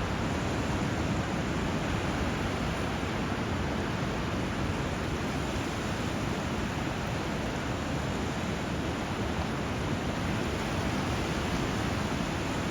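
Steady rush of flowing water and surf, an even noise with no separate wave breaks standing out.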